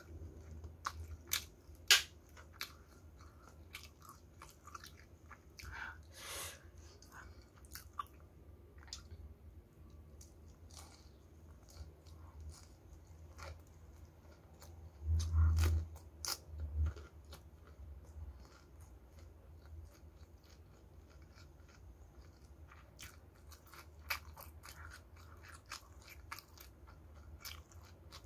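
Close-up chewing and crunching of crispy battered fried chicken and rice, with many short sharp clicks throughout. A dull low thump about halfway through.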